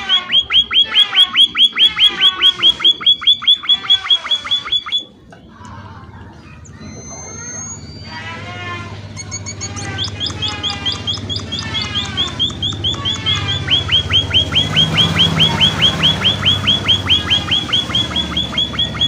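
An emprit, a small finch, chattering in a fast run of short chirps, several a second, each dropping slightly in pitch. It breaks off about five seconds in, with only a few scattered calls and a short rising whistle, then starts again about ten seconds in and keeps going over a low hum.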